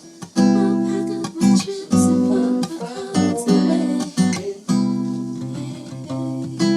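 Acoustic guitar strumming chords, with a sharp strum every half-second to a second and the chords ringing between them.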